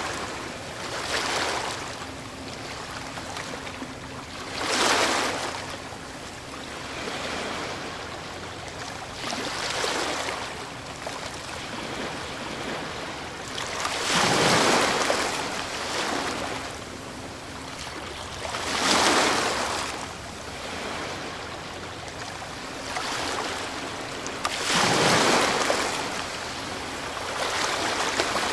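Ocean waves breaking on a shore: a steady wash of surf with a louder surge every four to five seconds as each wave crashes and then hisses away.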